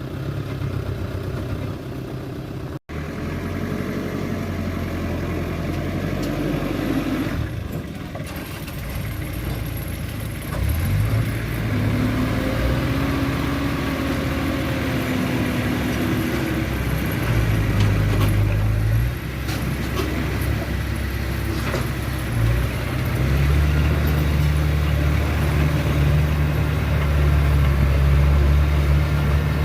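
Diesel engine of a small crawler bulldozer running and working under changing load, its low drone rising and easing several times and growing heavier near the end.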